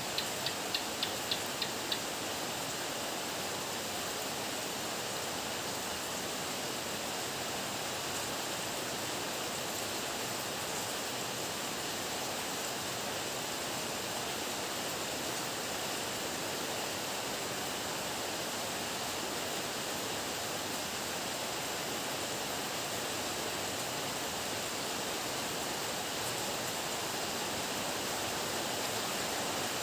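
Heavy rain falling steadily, an even hiss. In the first two seconds a short run of about seven quick, high ticks sounds over it.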